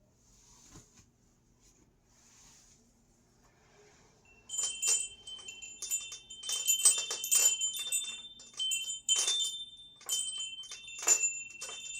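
Small metal bells or chimes struck again and again, from about four and a half seconds in, each strike leaving a bright ringing tone; faint soft rustles come before.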